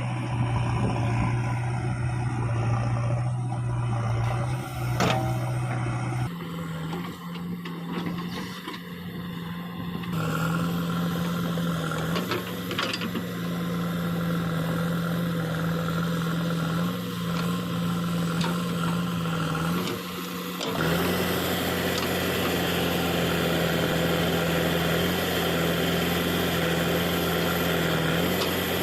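Diesel engine of heavy earth-moving machinery running steadily. It steps up to a higher engine speed about six seconds in and holds it, and the sound grows fuller and louder about twenty-one seconds in, as if working under more load.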